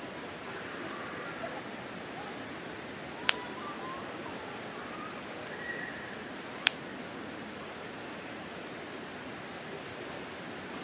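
Wood campfire burning with a steady hiss, and two sharp pops from the burning wood, one about three seconds in and a louder one near seven seconds.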